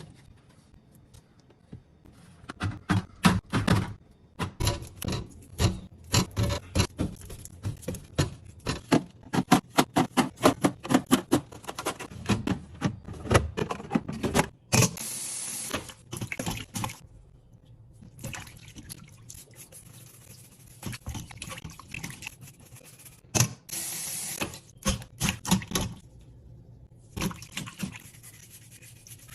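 Kitchen handling sounds: a quick, irregular run of clicks and knocks as containers and food are handled and set down, with a few stretches of running or pouring water.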